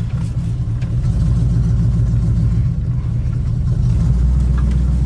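The 1974 Chevy Nova's 350 V8 running at low speed, a steady low rumble that grows louder about a second in. A deeper drone joins it for the last second or so.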